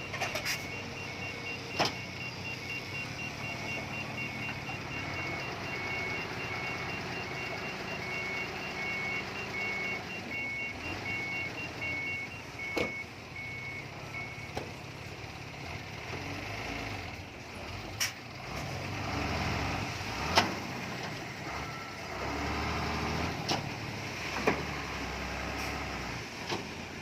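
Heavy earthmoving machinery running steadily, with a reversing alarm beeping about once a second that stops about halfway through. Several sharp knocks come at intervals.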